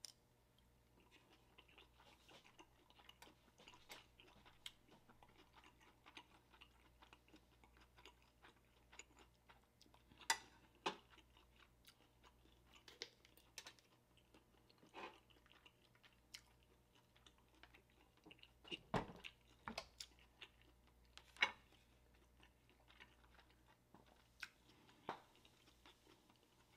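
Close-miked chewing of a steamed dumpling in sauce: soft, wet mouth clicks and smacks throughout, with a few sharper, louder clicks.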